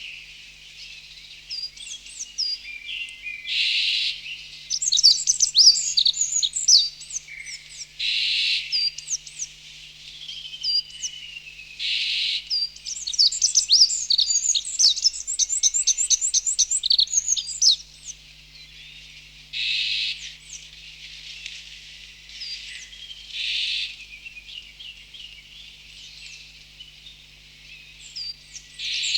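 Small birds chirping and twittering: rapid runs of high, quick falling notes with pauses between. Short hissing bursts of about a second come every few seconds, under a faint steady low hum.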